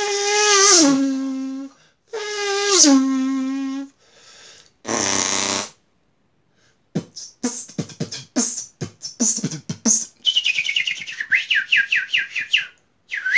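A man imitating a sport motorcycle with his mouth: two long revving notes, each dropping in pitch. Then come a hiss, a run of sharp clicks and a fast string of chirps that fall in pitch, like birds.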